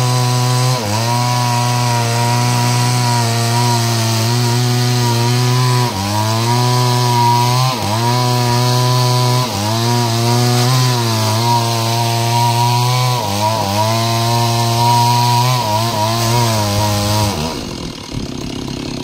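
Stihl two-stroke chainsaw running at full throttle while ripping lengthwise through a log to make planks. Its note sags briefly and recovers several times as the chain bites under load, then drops away near the end.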